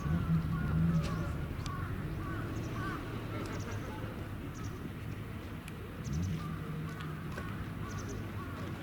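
Birds calling, with a low steady engine hum underneath that swells briefly near the start and again about six seconds in.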